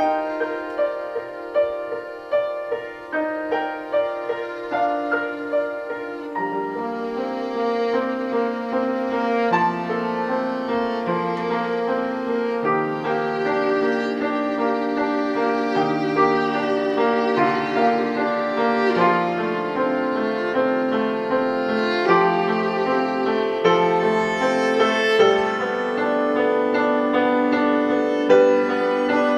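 Live instrumental music: a violin playing a melody over piano, with struck piano notes at first, then longer held string notes and a lower line coming in about six seconds in.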